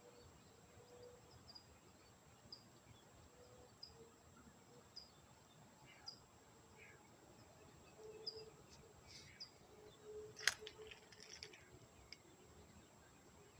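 Faint outdoor ambience with a short, high chirp repeating roughly once a second, like a small bird or insect calling, and a single sharp click about ten seconds in.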